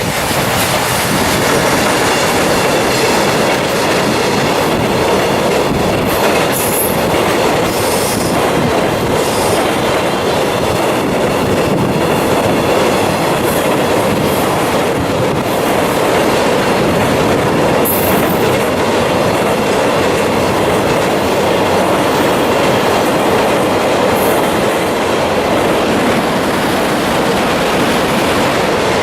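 Long container freight train behind an EF200 electric locomotive rolling fast across a steel railway bridge: a steady, loud rumble of wagons with rhythmic clickety-clack at the rail joints. A few brief high squeals from the wheels come and go.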